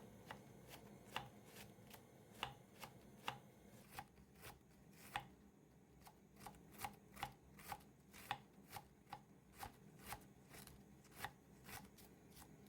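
Knife chopping on a cutting board: a run of sharp, irregular strokes, about two or three a second.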